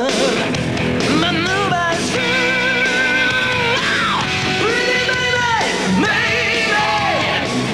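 Rock song with a male lead vocalist singing long, high held notes with vibrato over a full band, several phrases ending in a falling slide.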